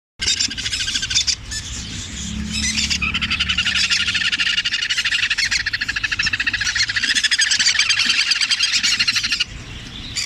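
Several young birds being hand-fed, chirping in a rapid, continuous chatter of begging calls that stops abruptly near the end.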